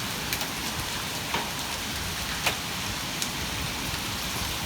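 Heavy rain with hail, a steady hiss broken by a few sharp clicks of hailstones striking hard surfaces, the loudest about two and a half seconds in.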